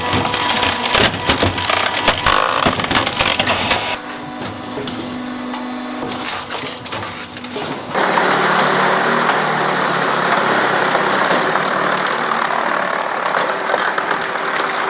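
Wood crackling and splintering under a heavy press, with dense sharp cracks for the first few seconds. It then gives way to a quieter machine noise, and from about halfway on to a loud, steady mechanical noise.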